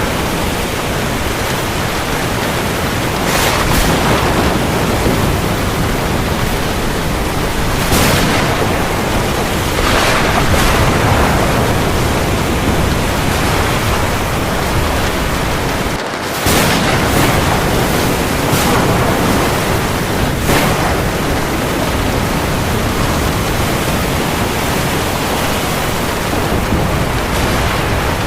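Heavy rain falling in a steady wash of noise, with several brief louder surges and a momentary drop about sixteen seconds in.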